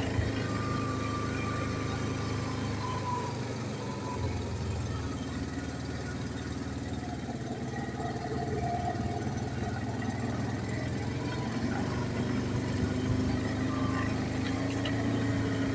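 ATV engine running steadily while riding, its pitch shifting a little as speed changes.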